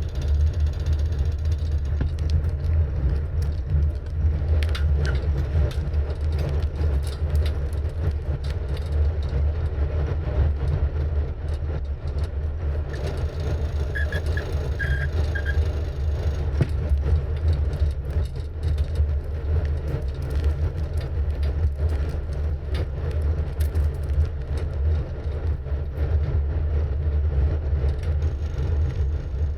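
Steady low rumble of wind on the microphone and tyres rolling on the road from a moving bicycle, with scattered faint clicks. A few short high chirps come about halfway through.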